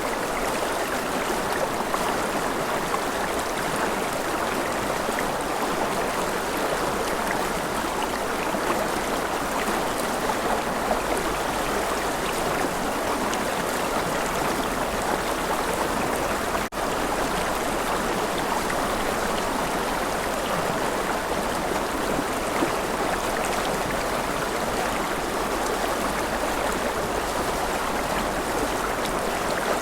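River water flowing steadily over stones, a continuous even rush, with a momentary dip in level a little over halfway through.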